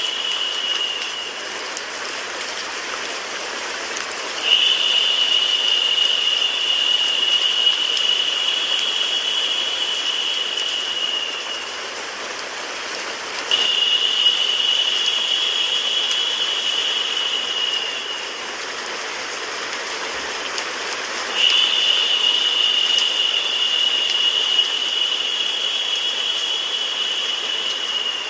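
Steady rain sound mixed with white noise, as a continuous sleep soundtrack. A louder, higher-pitched hiss swells in three times and holds for several seconds each time.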